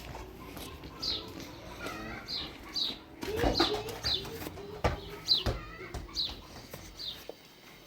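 A small bird chirping, a short falling note about once a second, with a few sharp knocks and clatters in between.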